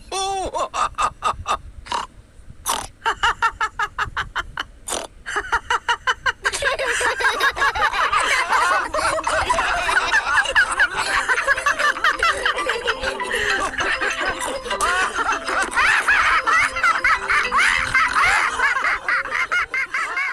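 Cartoon characters laughing: short rhythmic bursts of laughter at first, then from about six seconds in many high-pitched laughing voices overlapping.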